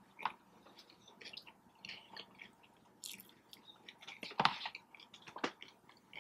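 Close-miked chewing of a steak sandwich: soft, wet mouth clicks and smacks, with a couple of louder smacks near the end.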